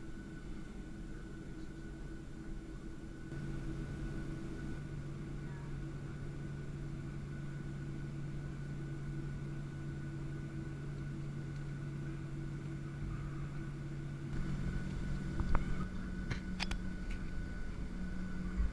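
Boeing 737-700 cabin hum: a steady mechanical drone with several fixed tones, one of which steps up in pitch about three and a half seconds in and again near the end. A few sharp clicks sound near the end.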